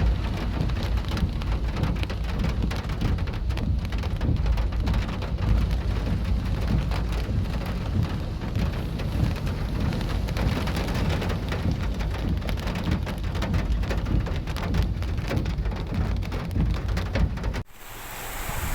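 Heavy rain pouring down over a steady low rumble, with a patter of many drops. Near the end the sound breaks off suddenly and resumes as a thinner, hissier rain.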